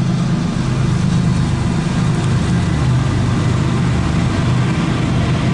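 Diesel locomotives of a CSX freight train running past, a steady, loud, low engine drone.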